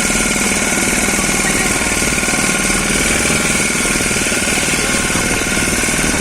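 Boat engine running steadily, a loud, fast, even chugging.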